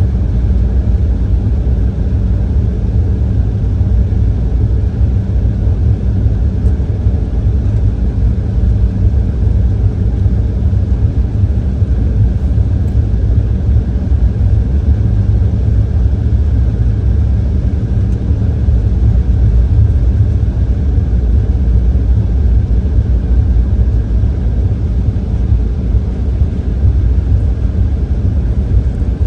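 Steady, loud low rumble of an Embraer E170's twin turbofan engines heard inside the passenger cabin, with a faint steady hum above it.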